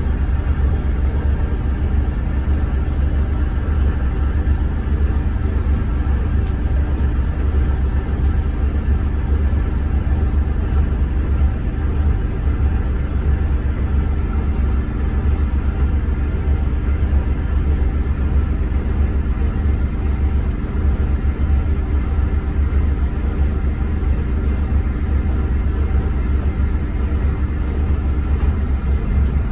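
Scania K230UB city bus's five-cylinder diesel engine running at an even speed, a steady low drone with road noise and no gear change or braking heard.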